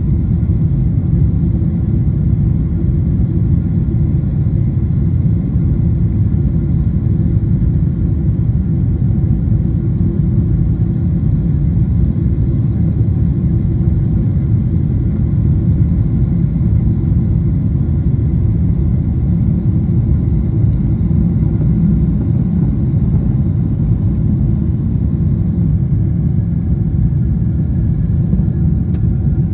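Airliner cabin noise during a jet takeoff: engines and airflow heard from inside the cabin as a steady, even low rumble with a few faint higher tones.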